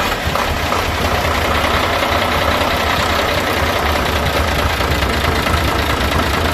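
Truck diesel engine running at a steady idle, with a continuous clattering rumble.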